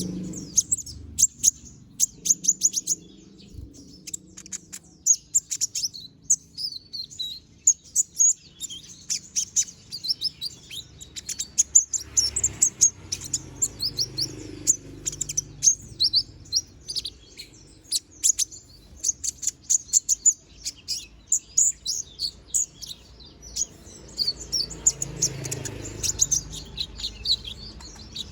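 Konin (kolibri ninja) songbird singing nonstop in rapid strings of short, high, sharp chirps.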